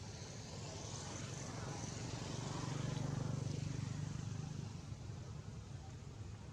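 A low engine hum that grows louder toward the middle and fades again.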